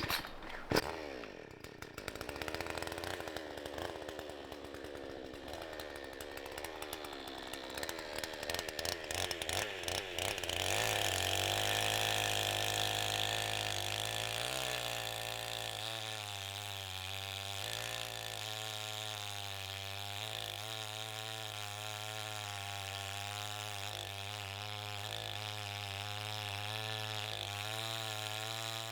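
Small two-stroke engine of a chainsaw running, unsteady at first with clicks and a wavering pitch, then settling into a steady run about eleven seconds in.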